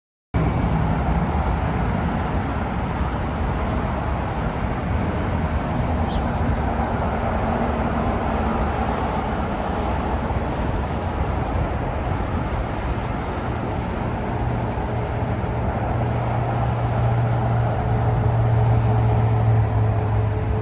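Airbus A330 jet engines running: a steady rushing noise with a low hum that grows stronger through the second half, loudest near the end.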